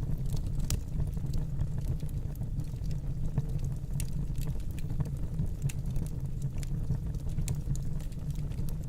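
Wood fire burning in a fireplace: a steady low rumble of the flames with irregular sharp crackles and pops from the burning logs throughout.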